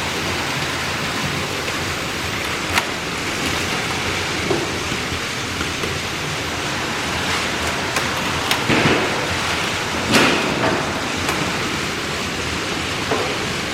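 Several Plarail battery-powered toy trains running together on plastic track: a steady, dense rattling whirr, with a few sharp clicks and clacks.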